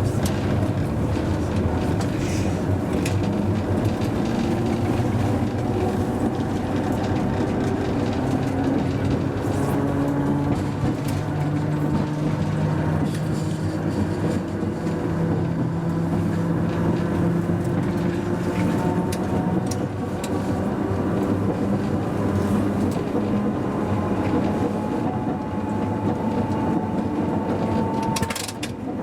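Hakodate City Tram car 530 running, heard from the driver's cab: steady rolling noise with a motor and gear whine that slowly rises and falls in pitch as the speed changes. Scattered clicks from the wheels on the rails, with a sharper click near the end.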